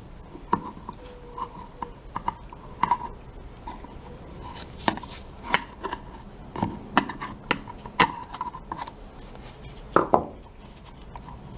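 Irregular clicks and knocks as the oil filter housing cap and the new filter element are handled and worked on to swap the cap's sealing ring, with two sharper knocks about ten seconds in.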